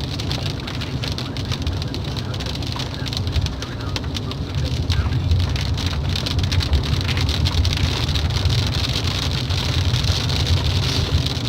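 Steady rain pattering in a dense run of fine drop ticks, over a continuous low rumble that grows slightly louder about halfway through.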